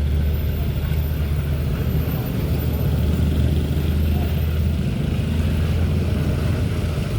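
Heavy truck diesel engine running close by, a steady low rumble.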